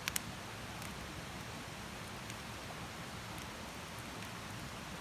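Wood campfire burning with a steady hiss and crackle, two sharp pops right at the start and a few fainter snaps after.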